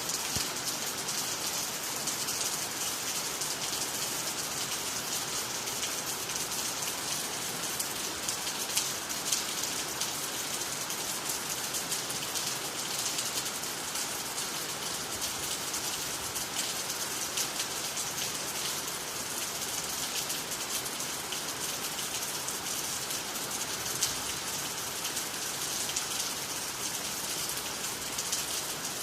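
Steady gentle rain falling on water, trees and the ground, a continuous hiss full of fine drop patter.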